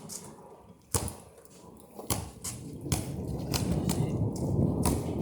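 A basketball bouncing on an outdoor court: about half a dozen sharp, unevenly spaced thuds. Low wind noise on the microphone grows from about three seconds in.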